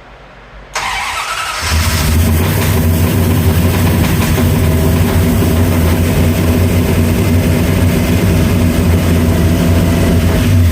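Car engine cranked by the starter about a second in, catching within a second and then idling steadily and loudly.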